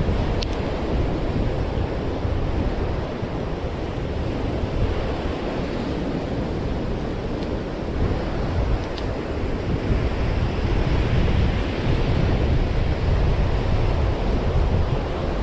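Ocean surf washing onto a beach, with wind buffeting the microphone; the surf grows louder about two-thirds of the way through.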